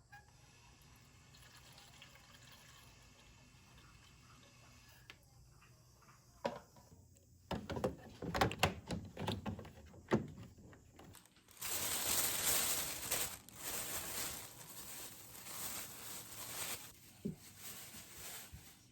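A few sharp knocks and clatter, then water running from a tap into a sink for about six seconds, rising and falling in strength before it stops near the end.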